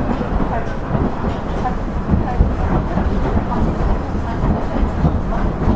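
Interior running sound of a KiHa 112 diesel railcar under way: a steady low rumble of engine and wheels on track, with faint wheel clatter over rail joints.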